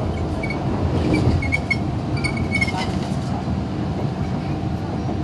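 MTR Disneyland Resort Line M-train running between stations: a steady rumble with a faint steady hum above it.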